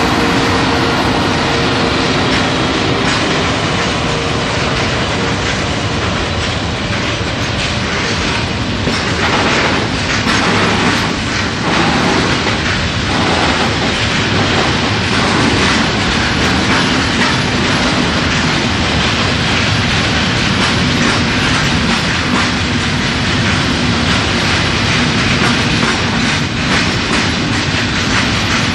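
Freight train wagons rolling past close by, a steady, loud rattle and clatter of steel wheels over the rail joints.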